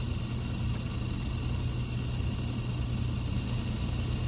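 Steady low hum of an idling car engine under an even hiss, with no distinct strokes or knocks.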